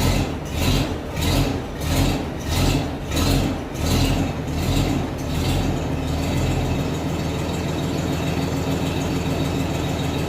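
1922 Rumely OilPull 16-30H tractor engine running slowly, with big, even chugs just under two a second. About six seconds in the chugs blend into a steady drone.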